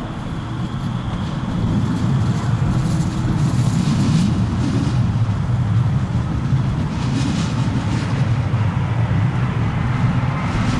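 Jet airliner engines rumbling, growing louder over the first two seconds and then holding steady.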